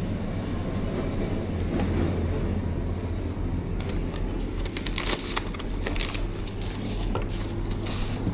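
A steady low hum, with a quick run of clicks and rustles from about four seconds in.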